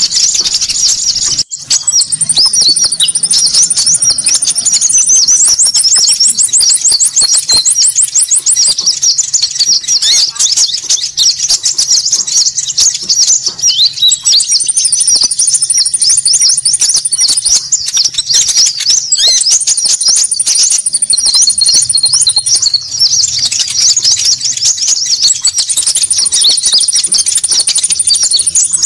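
Konin birds calling in a dense, noisy chorus of rapid high chirps, as used in a bird-lure (pikat) recording, with several longer high trills rising above the chatter. There is a brief break in the sound about a second and a half in.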